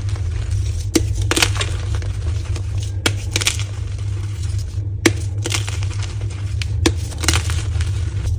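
Blocks of gym chalk being crushed: four sharp cracks about two seconds apart, each followed by a brief crumbling crunch as the chalk breaks apart. A steady low hum runs underneath.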